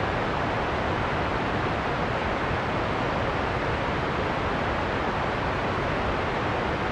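Heavy rain and wind from a storm soundscape: a dense, steady rushing noise, deep and full, with no single drops or gusts standing out.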